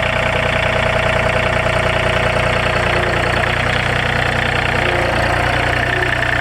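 An engine idling steadily, with a fast, even pulsing.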